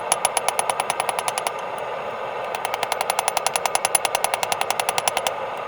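Hammer striking hot steel on an anvil in rapid, light, ringing blows, about seven or eight a second, with a short break after about a second and a half, over a steady rushing noise.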